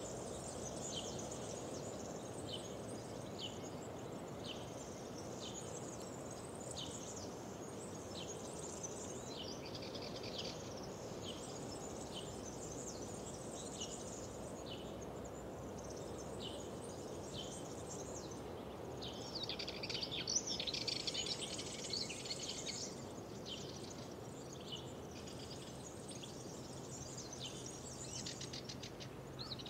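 Wild birds singing, with short high chirps repeating about once a second and a louder, denser burst of song about twenty seconds in, over a steady low outdoor rush.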